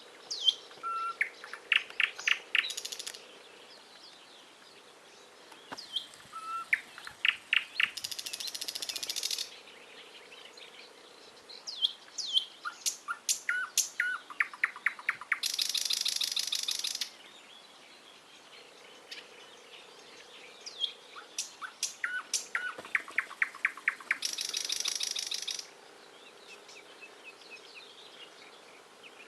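A songbird singing the same phrase four times, about every six to eight seconds: a quick run of repeated notes ending in a longer buzzy note. Other short bird chirps sound between the phrases.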